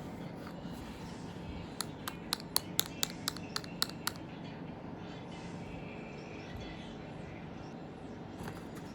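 A cat's plastic toy clicking sharply as the cat bats it about, a quick run of about ten clicks lasting a couple of seconds, a little after the start.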